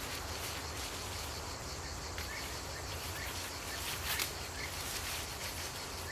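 Forest ambience: a steady insect chorus with a few short bird chirps, and a brief sharp click about four seconds in.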